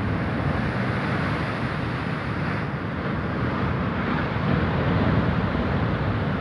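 Rough sea surf washing and breaking against rocks, a steady noise of churning water, with wind buffeting the microphone.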